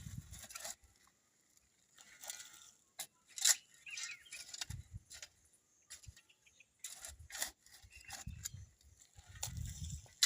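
Irregular scraping and rustling of decomposed compost being scooped into a basin, with soft handling thumps. A bird calls briefly near the middle.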